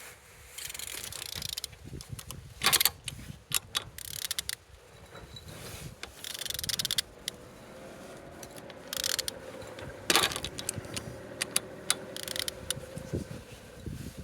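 Peugeot-Citroën DV6C 1.6 HDi diesel engine being turned over by hand: irregular metallic clicks, scrapes and clunks of the tool and the rotating engine. The engine turns freely and is not seized.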